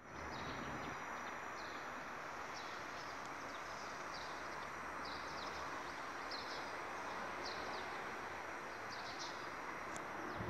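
Steady outdoor background noise with short, high bird chirps coming irregularly about once a second.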